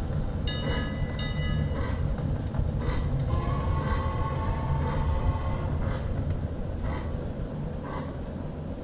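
Lionel LionChief 2-4-2 toy steam locomotive running on O-gauge track with a steady low rumble from its motor and wheels. Its onboard sound system gives two short whistle blasts about half a second in, then a longer whistle from about three to six seconds in.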